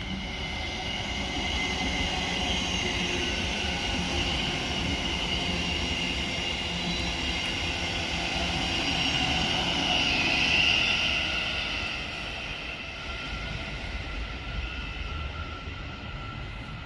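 Class 717 electric multiple unit on the move at the station: a rail rumble with several high, steady whining tones from its traction equipment. The sound swells to its loudest about ten seconds in, then fades away.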